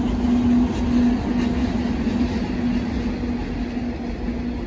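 Metre-gauge Glacier Express train hauled by an HGe 4/4 electric locomotive rolling slowly past. There is a steady low hum and rumble; the hum weakens and breaks up as the locomotive moves on and the panoramic coaches pass.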